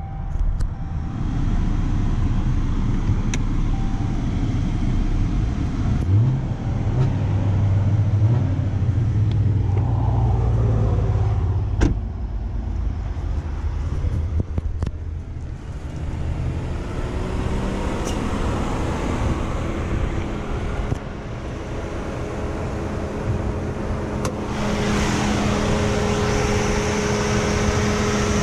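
2015 Chrysler 200's 2.4 L MultiAir four-cylinder engine idling, first from the driver's seat and then close up over the open engine bay, where it gets louder with a steady whine from about two-thirds of the way through. A sharp knock sounds about halfway through.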